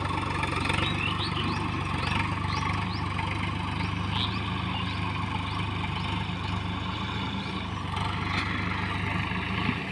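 Swaraj 855 FE tractor's three-cylinder diesel engine running steadily at idle.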